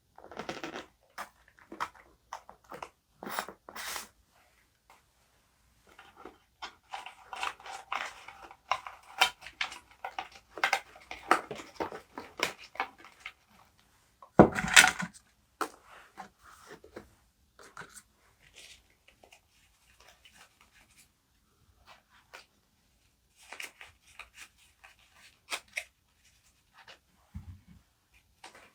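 Paper and stationery handled on a desk: rustling and crinkling of paper with scattered light taps and clicks, and one louder thud about halfway through.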